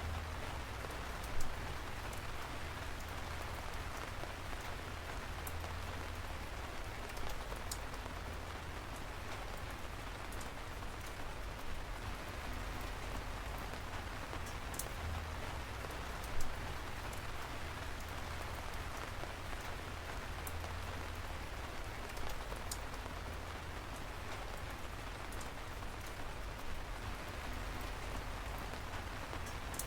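Steady rain falling, an even hiss with occasional louder single drops striking close by, the sharpest at about a second and a half in and again about halfway through.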